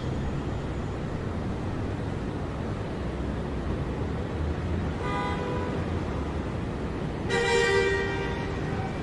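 City street traffic rumbling steadily, with two car horn honks: a short one about five seconds in and a longer, louder one about seven and a half seconds in.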